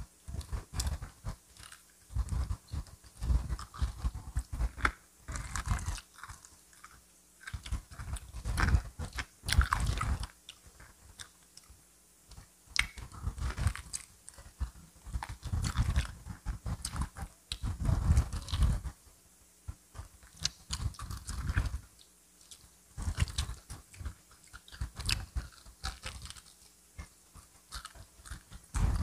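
A person biting into and chewing crispy fried chicken: sharp crunches and chewing in irregular bouts, with short lulls between mouthfuls.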